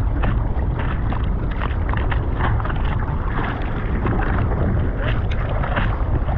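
Wind buffeting the microphone with a steady rumble, over repeated water splashes and sloshing in the surf.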